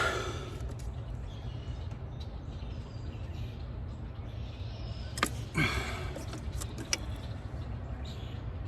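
Steady low rumble with a few sharp metallic clicks and a clank a little past halfway: a wrench working a seized nut on a Ford F-150's EGR valve.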